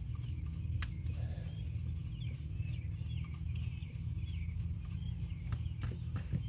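Small birds chirping repeatedly over a steady low hum, with a single sharp click about a second in.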